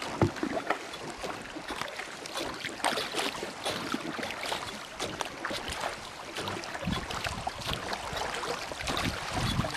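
River water splashing and lapping in many small, irregular splashes, with a low rumble near the end.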